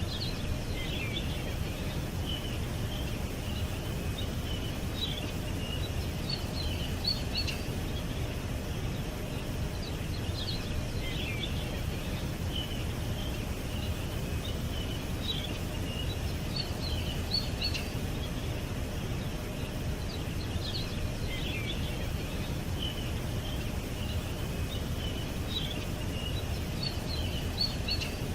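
Birds chirping in short high phrases that recur every five seconds or so, over a steady low background rumble.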